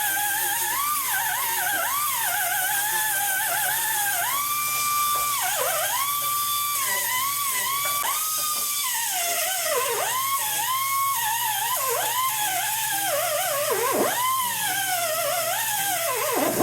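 Small high-speed grinder grinding down a fresh weld on a steel body mount: a steady high whine that sags in pitch each time the tool is pressed into the metal and climbs back when it is eased off, the deepest sags near the end.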